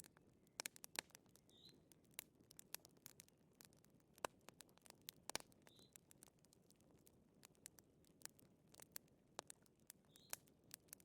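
Wood fire crackling faintly in a fireplace: irregular small pops and snaps over a soft hiss. A faint short high chirp comes twice, near 2 s and near 6 s.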